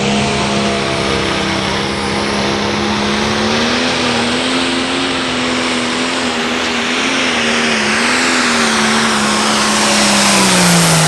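Turbocharged diesel pulling tractor running flat out under load, its engine note holding steady with a slight waver and a high turbo whistle over it. Near the end the engine pitch drops as it comes off the throttle.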